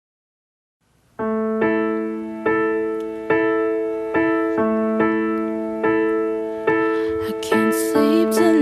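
Piano starting up about a second in, playing a slow intro of chords struck evenly, about one every 0.8 seconds.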